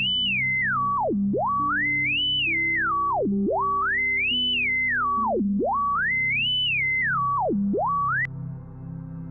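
Synthesized pure tone from a p5.js shape-to-sound program, its pitch following a point riding around a custom shape: it holds high, steps down, dips low and climbs back up, about once every two seconds, four times over, then cuts off about 8 seconds in. Soft background music plays underneath.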